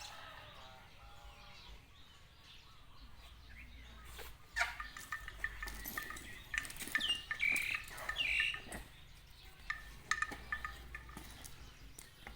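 Birds chirping in short calls, with a few clicks, busiest in the middle of the stretch and fainter at the start and near the end.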